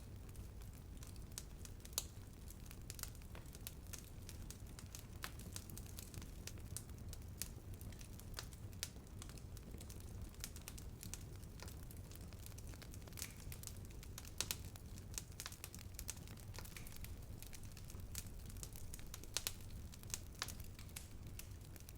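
Bonfire burning and crackling: frequent irregular pops and snaps, a few of them sharper and louder, over a low steady rumble of the flames.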